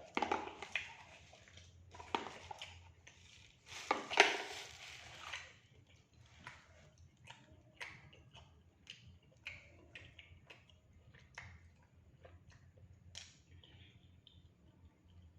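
Close-miked eating of fried rice and fried fish: loud crunching bites in the first five or so seconds, then softer chewing clicks and mouth smacks.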